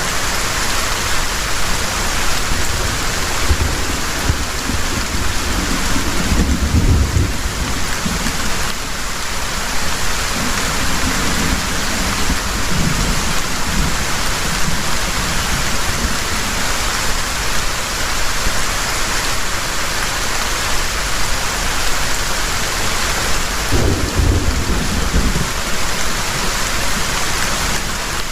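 Heavy rain pouring steadily, with two low rumbles of distant thunder rolling in, one early on and one near the end.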